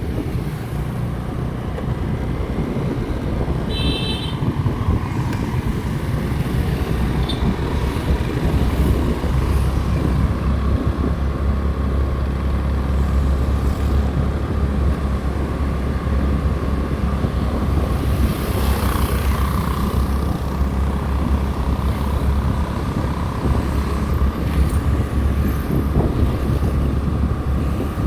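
Motorcycle running steadily while being ridden along a road, a continuous low engine and road rumble. A brief high beep sounds about four seconds in.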